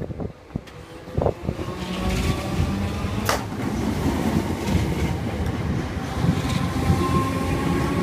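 Merseyrail electric train pulling away, its rumble building about two seconds in with a steady whine from the motors that edges up in pitch. A few knocks come in the first second and a sharp click a little after three seconds.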